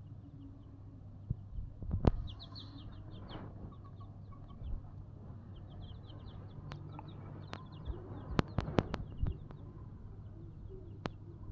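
Domestic chicks peeping in quick runs of short, high cheeps, faint against a low steady hum. A few sharp taps and knocks come mostly in the second half.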